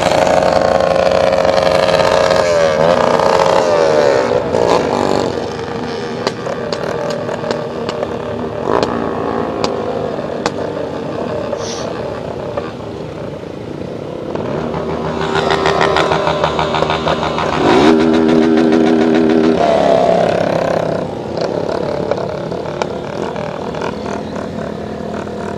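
Motorcycle engines running and being revved, their pitch rising and falling, loudest around the middle.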